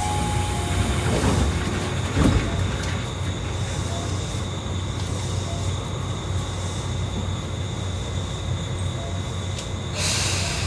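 Electric commuter train running on the Tokyu Toyoko Line, heard from inside the car: a steady low rumble with a thin high whine, a single thud about two seconds in, and a brief rush of noise near the end.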